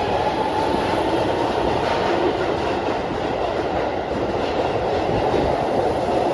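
Keihan electric train running into the station: a steady rumble of wheels on rail with a held motor whine as it comes in to stop.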